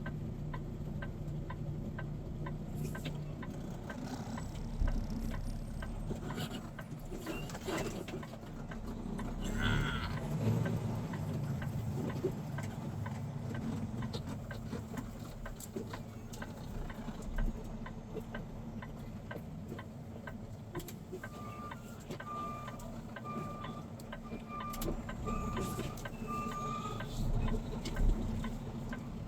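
A gasoline tanker semi-truck idles with a low steady engine hum under an even, regular ticking that fits the turn-signal flasher. Two-thirds of the way in comes a run of about seven short, high beeps at one pitch.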